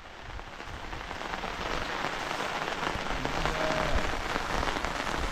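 Rain falling steadily, a dense even hiss that grows gradually louder.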